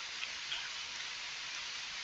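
Steady background hiss of a recording with no speech, with two faint clicks about a quarter and half a second in.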